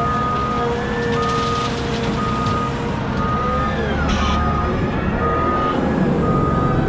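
A heavy machine's reversing alarm beeps about once a second, each beep lasting half a second, over the steady rumble of a diesel engine.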